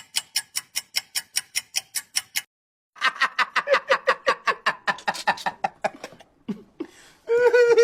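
Comedy sound-effect clips: a quick run of sharp clicks, about five a second for two and a half seconds, then after a short gap a rapid stuttering pitched pulsing for about three seconds, and a short held tone near the end.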